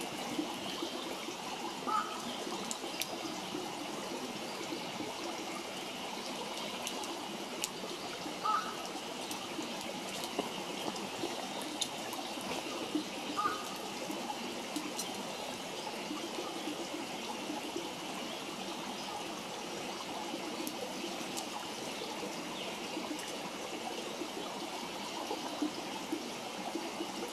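Wood campfire burning: a steady hiss with frequent small crackles and a few louder pops.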